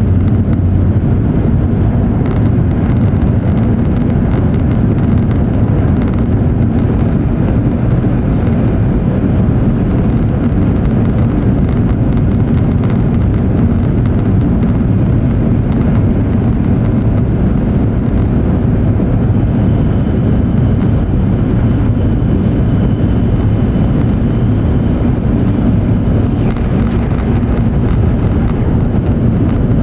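E7 series Shinkansen running at speed, heard inside the passenger cabin: a loud, steady low rumble of wheels on rail and travel noise.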